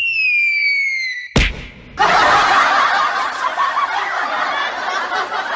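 Cartoon sound effects: a falling whistle ends in a sharp bang about a second and a half in, and laughter takes over about half a second later.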